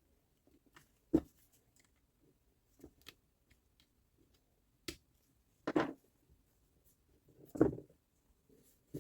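Sparse clicks and knocks of tool parts being handled. Four louder knocks come about one, five, six and seven and a half seconds in, the last the loudest, with faint ticks between them.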